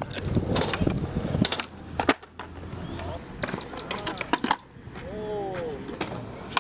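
Skateboard rolling on pavement, then sharp cracks and clatter of the board popping, landing and hitting the ground, the loudest about two seconds in; the rolling stops about three seconds in. A short vocal exclamation follows about five seconds in.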